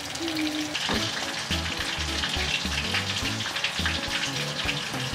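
Panko-breaded chicken katsu cutlets frying in hot oil in a pan: a steady, dense sizzle and crackle of oil.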